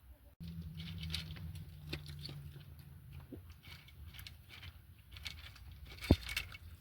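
Dinner being dished up: light clicks and knocks of a pizza being handled and plated, over a steady low hum for the first three seconds, with one sharp knock about six seconds in.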